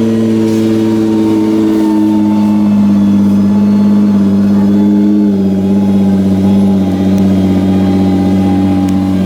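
2017 Nissan GT-R's twin-turbo 3.8-litre V6 idling steadily just after start-up. Its pitch eases down a little about five seconds in.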